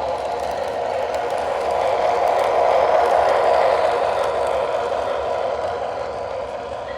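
MTH O-gauge model subway train running along the track, a steady rumble and rattle that swells to a peak about three seconds in and then eases off as it passes.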